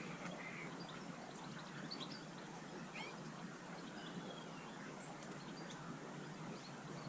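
Small songbirds giving scattered short chirps and call notes over a steady outdoor background hiss.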